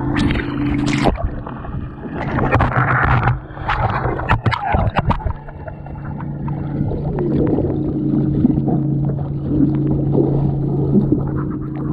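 Water splashing and gurgling around a capsized small sailboat, in irregular bursts for the first few seconds, then calmer sloshing, over a steady low drone.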